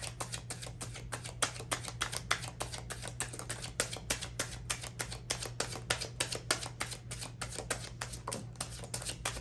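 Tarot cards being shuffled by hand: a quick run of crisp card clicks, several a second, over a steady low electrical hum.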